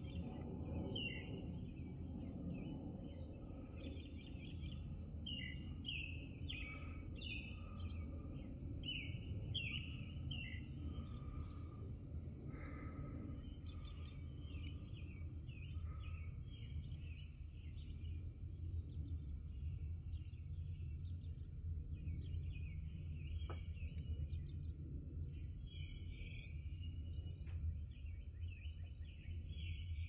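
Small birds chirping in quick, repeated short calls over a steady low background rumble, with a faint steady high tone throughout.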